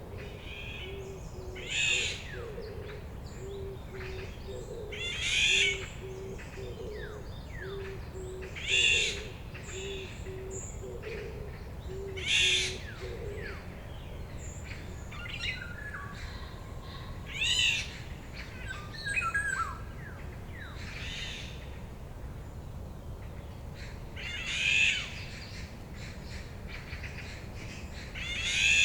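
Wild forest birds at dawn: one songbird repeats a loud, high, twittering phrase every three to four seconds, with quieter calls between. Under it, a low hooting note repeats about once a second for the first half and stops partway through.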